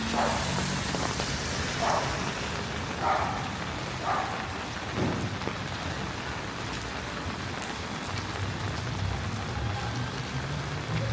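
Steady rain falling, with several short, sharp sounds in the first five seconds and a low hum from an engine later on.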